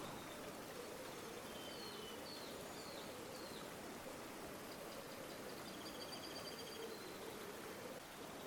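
River water flowing steadily, with faint bird chirps about two to three seconds in and a short rapid trilling bird call near the middle.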